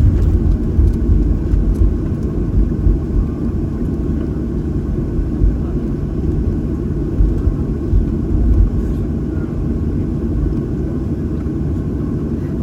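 Steady low rumble of a Boeing 737-800 heard from inside the passenger cabin, with small swells in loudness.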